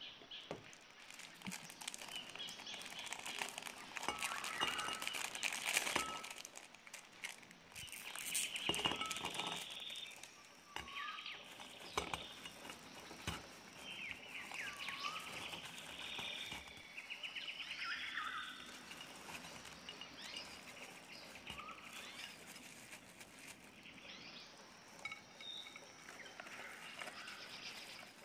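Small birds chirping and trilling, with short rising and falling calls throughout, and a few sharp clicks in between.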